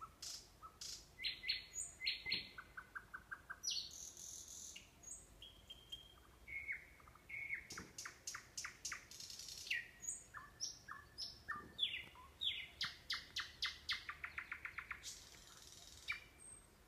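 Nightingale singing: a series of varied phrases built from fast runs of repeated clicking and trilling notes and clear whistled notes, with short pauses between phrases. The song breaks off near the end.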